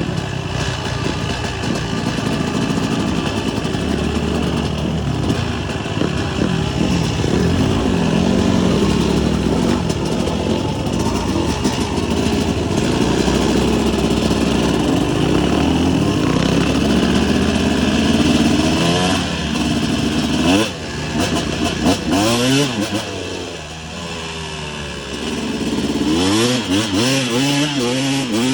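Motocross dirt bike engine running under way, its pitch climbing and falling as the throttle is worked, with repeated rev-ups in the second half.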